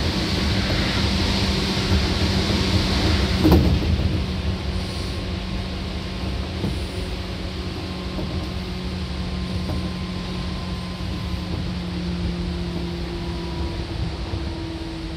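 Seibu 2000 series electric train running on the line, heard from inside the car: a steady rumble of wheels on rail with a low motor hum. A single sharp knock comes about three and a half seconds in, and the running sound slowly grows quieter.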